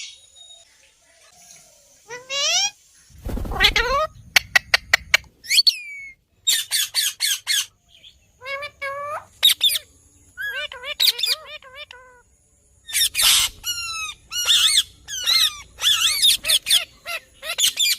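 Indian ringneck parakeet calling: short squawks and chirps that bend up and down, coming in bursts, with a quick run of about six sharp clicks about four seconds in.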